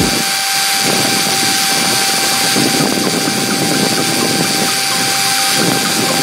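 Small DC motor spinning a sandpaper drum with a steady whine, as a pencil tip is pressed against the turning sandpaper and ground to a point with a rough hiss.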